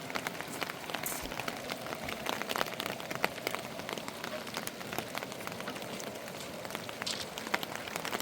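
Steady rain, with individual drops hitting a surface as quick, irregular ticks over an even hiss.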